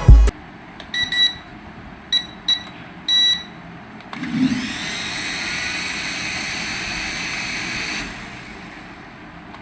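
Four short electronic beeps in the first few seconds, then a small electric motor whining up to speed about four seconds in. It runs steadily with a high hiss and winds down near the end.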